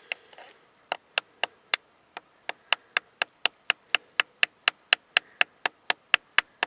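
A steady train of sharp clicks, about four a second, starting about a second in and coming slightly faster towards the end.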